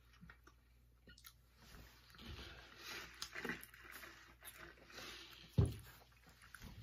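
Mouth sounds of people chewing and biting soft chocolate-glazed donuts, with small wet clicks. A single low thump comes a little after five seconds in and is the loudest sound.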